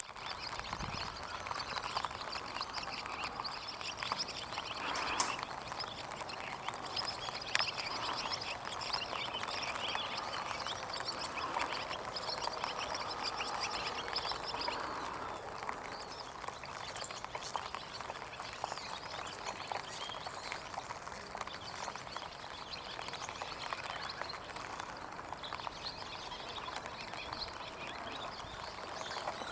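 Birds chattering and twittering continuously in rapid runs, busier in the first half, with a couple of sharp ticks.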